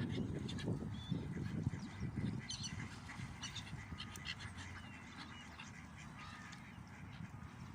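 Ducks quacking during the first couple of seconds, with small birds chirping throughout.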